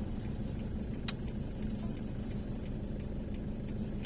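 Steady car engine and road rumble heard from inside a car, with faint regular ticking and a single sharp click about a second in.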